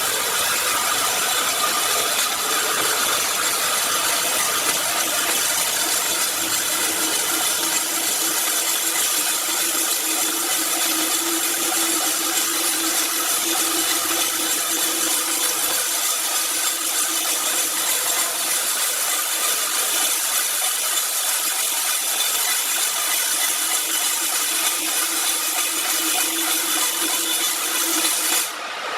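A power saw cutting steadily through wood: a loud, even cutting noise over a constant hum that starts abruptly and runs without a break.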